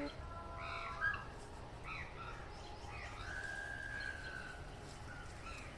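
Birds chirping: scattered short calls, with one longer, level whistled note a little past the middle.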